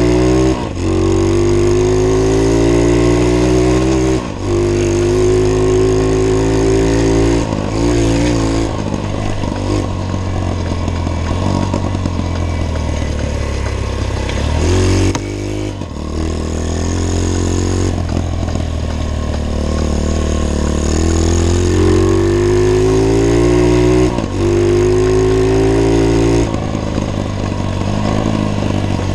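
Pit bike engine pulling under throttle on a ride, its pitch climbing slowly over several seconds and then dropping suddenly about five times as the throttle is rolled off. It is slow to rev out, which the rider takes as a sign the top end needs adjusting.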